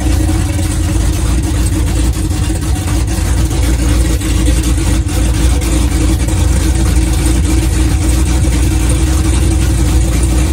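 A 427 cubic-inch LSX V8 in a Camaro ZL1 idling loudly and steadily, with a deep, even rumble.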